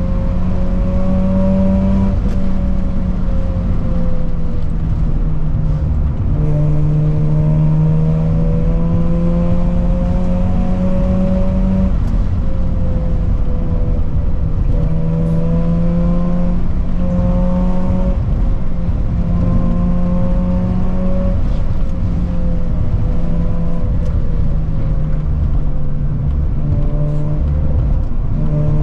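Car engine heard while driving, holding steady revs and stepping in pitch every few seconds as the throttle or gear changes, over steady road noise. The car is plausibly the vlogger's rotary-engined Mazda.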